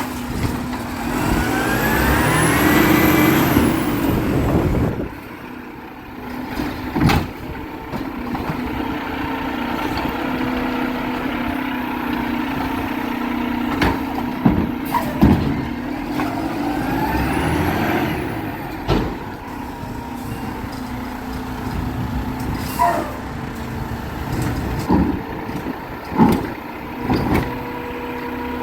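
Garbage truck running, its engine and hydraulics rising in a whine twice, a few seconds in and again about two-thirds through, over a steady idle hum, with occasional sharp knocks and clanks.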